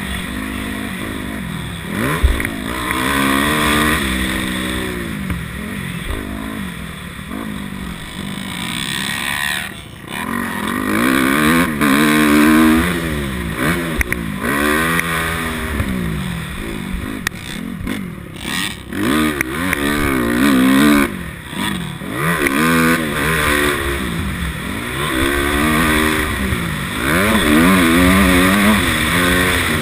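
250cc dirt bike engine ridden hard, revving up and dropping off over and over, the pitch climbing and falling every second or two, with a few short knocks along the way.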